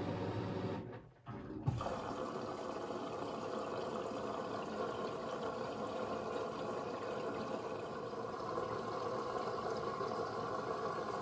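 Beko WMB 71643 PTE front-loading washing machine with water rushing steadily into or through it. The sound drops out briefly about a second in, and a click follows just after.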